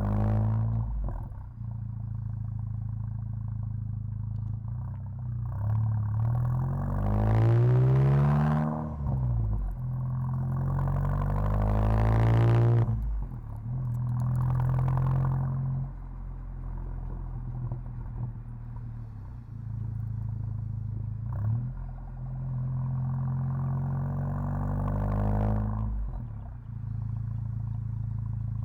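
VW Mk7 GTI's turbocharged 2.0-litre four-cylinder engine, with a 3-inch downpipe and non-valved exhaust, accelerating in several pulls: the pitch rises each time and drops abruptly at a gearshift, with a steady low cruising drone between pulls.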